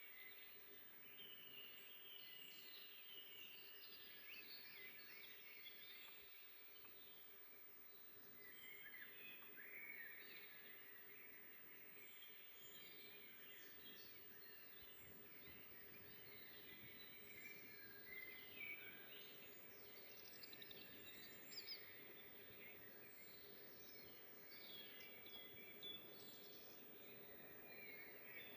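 Faint forest birdsong: many small songbirds chirping and trilling at once, with short high calls overlapping throughout. A faint steady low hum runs underneath.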